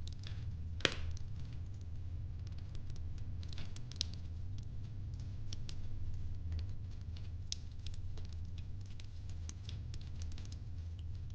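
Wood fire crackling: irregular sharp snaps and pops, with one louder pop about a second in, over a steady low hum.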